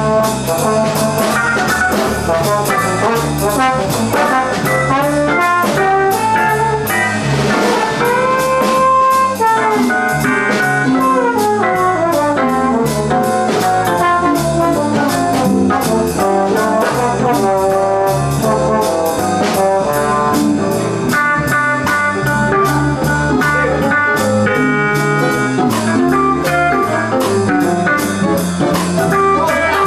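Small jazz combo playing swing, with a brass horn carrying the melodic line over bass and drum kit.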